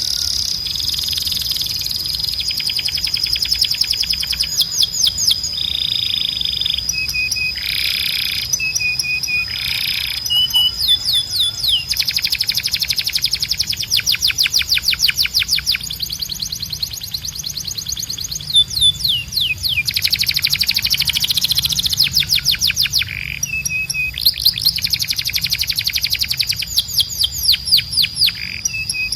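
Canary song: long, fast trills of rapidly repeated high notes alternating with buzzy rolls, with only brief pauses between phrases, over a steady high whistle tone.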